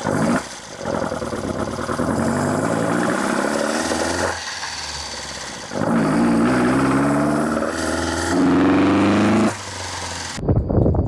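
Toyota Corolla KE70's 4K 1.3-litre pushrod inline-four being revved several times, its pitch climbing and falling back to a lower note between revs. The sound cuts off suddenly near the end.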